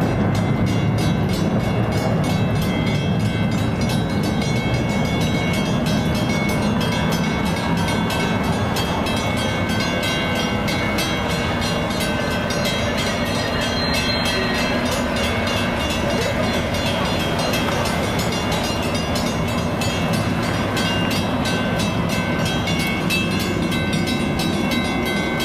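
A train running past close by: a loud, steady rumble and rail noise, with a rapid, even ticking on top.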